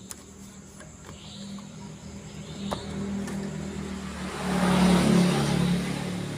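A motor vehicle passing close by: its engine hum and the rush of its passing build to a peak about five seconds in, then ease off.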